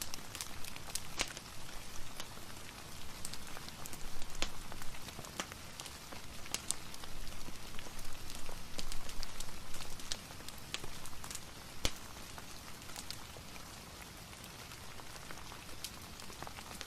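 Steady rain falling, an even hiss with scattered sharp clicks of drops and fire crackles from a wood fire mixed in. It eases somewhat about two-thirds of the way through.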